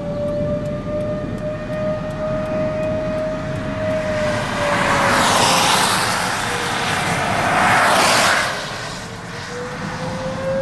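Outdoor tornado warning siren wailing steadily, its pitch slowly sagging and rising again as it sweeps. About halfway through, a loud rushing noise swells for about four seconds, then dies away.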